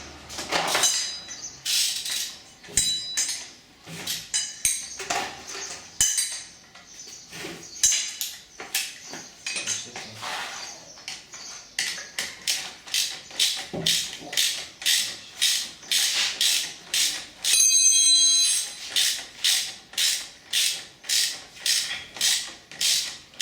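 Hand ratchet wrench and metal tools being worked on a car engine: irregular clinks and clicks at first, then steady ratchet clicking at about two strokes a second as a fastening is tightened. About two-thirds of the way through, a loud high-pitched squeal lasts about a second.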